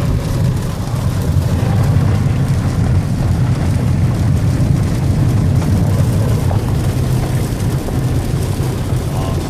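Steady low rumble of a car driving, heard from inside the cabin, with an even hiss above it.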